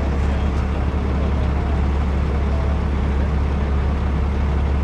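Heavy diesel truck engine running steadily, a constant low drone with no change in speed.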